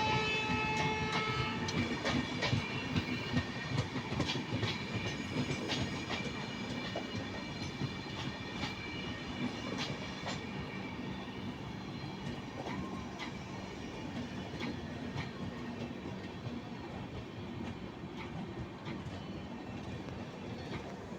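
Indian Railways train passing over a level crossing, its wheels clattering over the rail joints with many sharp clicks, slowly fading as it moves away. A brief steady tone sounds in the first second or so.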